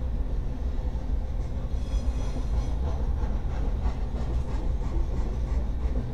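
Freight train of coal hopper cars rolling past: a steady low rumble of steel wheels on the rails, with faint scattered clicks.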